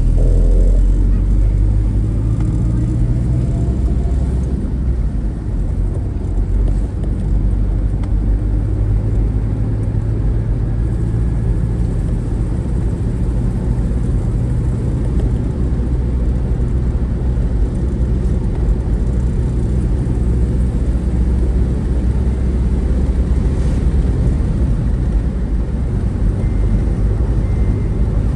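Steady engine and road noise of a moving motor vehicle: a continuous low drone.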